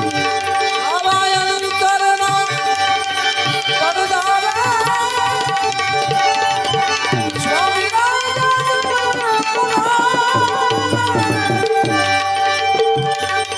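Indian devotional music: tabla playing a steady rhythm under a sustained drone, with a gliding, ornamented melody line over it.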